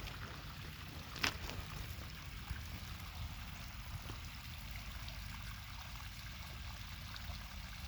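Steady hiss of water in the rain, with one sharp tap about a second in.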